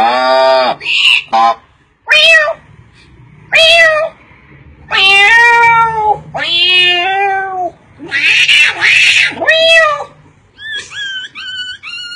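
A cat meowing repeatedly: about six separate meows, some short and some drawn out and bending in pitch. Near the end a quicker run of short, high, evenly repeated calls begins.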